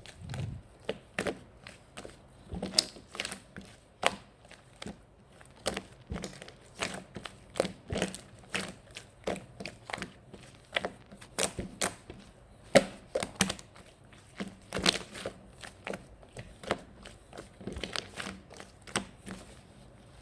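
A run of irregular sharp taps and clicks, about two or three a second, with some crinkling between them.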